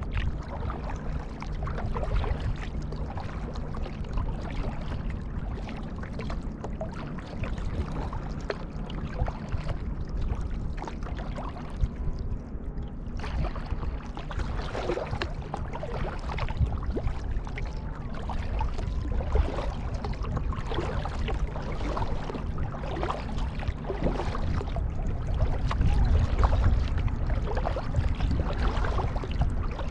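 Kayak paddle strokes splashing in the water, about one a second and clearer in the second half, over a steady low rumble on the action-camera microphone.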